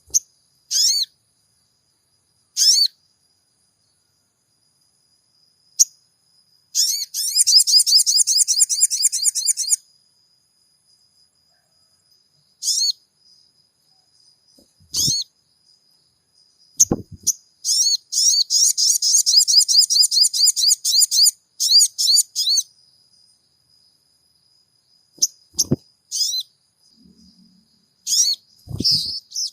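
Sogon birdsong used as a lure: short high chirps and two long runs of rapid, fast-repeating chirps, over a faint steady high tone. A few brief soft knocks sound among them.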